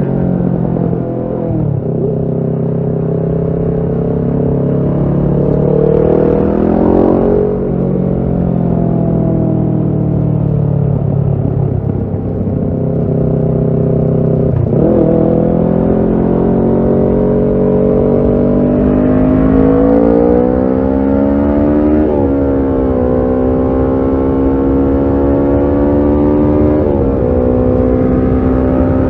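Kawasaki Ninja 650 parallel-twin engine running through a Shark SRC-4 full exhaust while being ridden. Its revs climb and fall, with a sharp drop in pitch at each of three gear changes up and one sudden jump in revs about halfway through.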